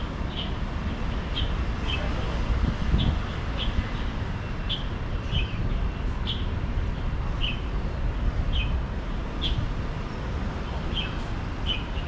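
A bird calling in short, high chirps, about one a second, over a steady low rumble.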